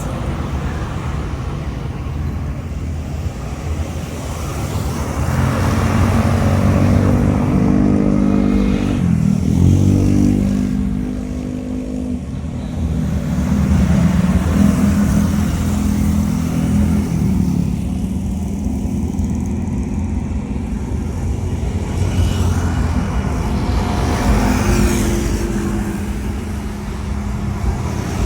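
Road traffic going by: car and motorcycle engine notes rise and fall over a steady low rumble.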